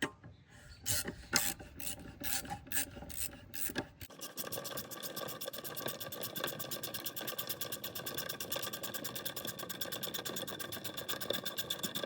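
Hand socket ratchet clicking as it turns the mower's 5/8-inch blade bolt off. There are a few separate clicks over the first four seconds, then a fast, even run of clicks once the loosened bolt spins freely.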